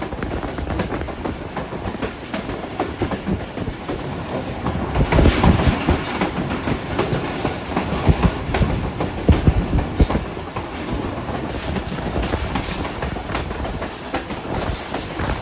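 Passenger train running along the track, its wheels clattering over rail joints with a dense run of knocks. It grows louder for a stretch in the middle, then settles again.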